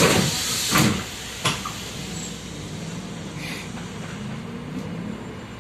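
Compressed-air hiss from a MAZ-105 bus's pneumatic door system dying away, then the doors closing with a thump about a second in and a sharper knock shortly after. Then the bus's engine runs steadily, heard from inside the passenger cabin.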